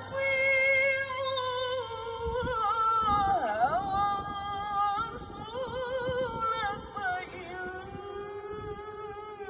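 A qori reciting the Quran in the melodic tilawah style: one voice holding long notes, with wavering, sliding ornaments in the middle and settling onto a lower held note near the end.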